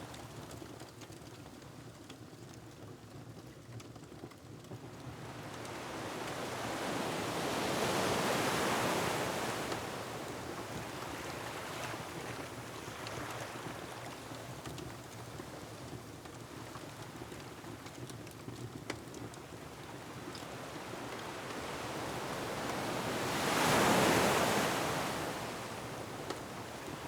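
Ocean surf over a steady wash of wind and water, with two waves swelling and breaking, about eight seconds in and again near the end. Faint, scattered crackles of a wood fire sound in between.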